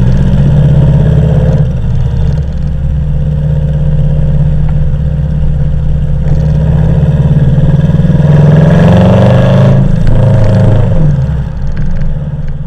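Subaru Forester STI's turbocharged flat-four engine running under load, its pitch rising about eight seconds in and dropping away after about ten seconds as the revs come off.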